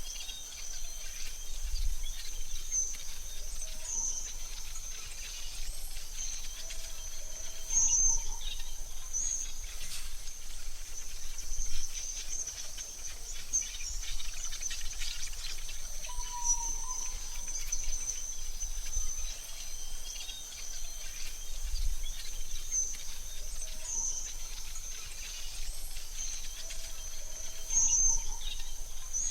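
AI-generated forest ambience: a steady, high insect-like trill throughout, with scattered short bird-like chirps and a faint low rumble underneath.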